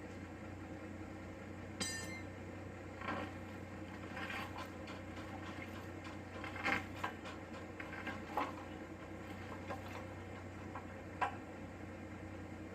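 Scattered light metallic clinks and clanks, about seven in all, the first with a brief ring, over a steady low hum.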